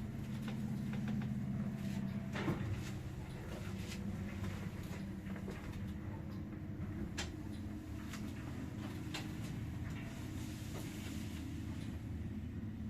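1996 MLZ passenger lift in operation: a steady low mechanical hum, with scattered sharp clicks and knocks, the loudest about two and a half seconds in.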